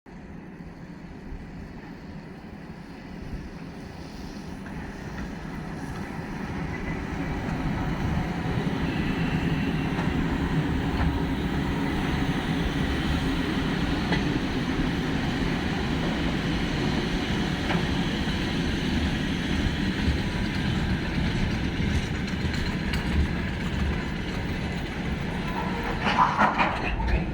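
Train running on rails, a steady rumble that builds up over the first several seconds. A brief louder, higher-pitched sound comes near the end.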